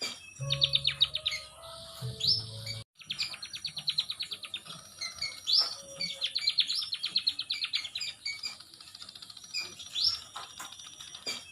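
Emprit (munia) song: fast trills of short chirps mixed with quick rising whistles, phrase after phrase, with a brief dropout about three seconds in.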